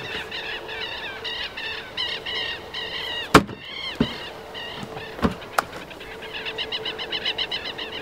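Birds chirping over and over in quick, short calls, with a few sharp knocks about three and a half, four and five seconds in, the first of them the loudest.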